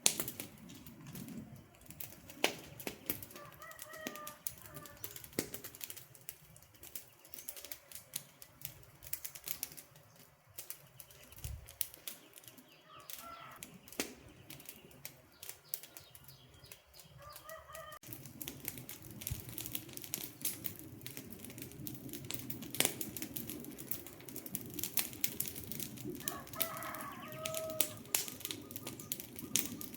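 Wood campfire crackling, with many sharp pops and snaps over a low hiss that grows fuller about halfway through. A bird calls faintly a few times in the background.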